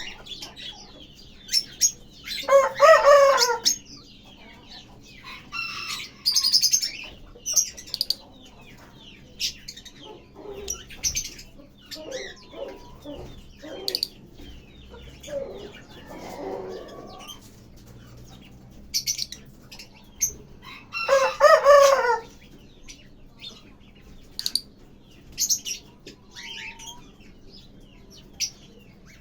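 Lovebirds chirping and twittering in many short, high calls, with two louder, longer harsh calls about two and a half seconds in and again about twenty-one seconds in.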